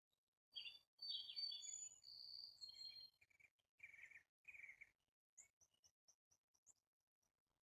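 Faint songbird song: a rapid run of high whistled notes and slides for about three seconds, two fuller lower notes, then a series of short, high chips.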